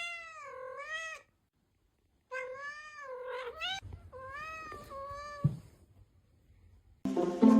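A cat meowing in long, drawn-out meows: one at the start, then after a pause of about a second, two or three more. A short knock follows, and music comes in near the end.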